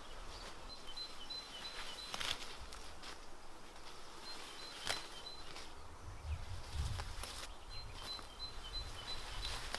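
A songbird singing three short phrases, each a quick run of even, high notes, over outdoor ambience with a few brief rustles.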